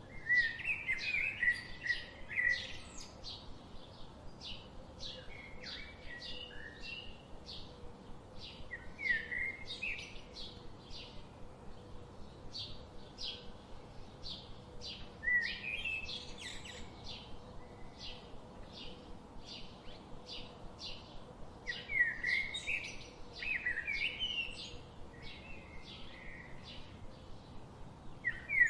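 Birdsong: one bird repeats a short high chirp about twice a second, while another sings longer warbling phrases every few seconds, loudest near the start and again about three-quarters of the way through.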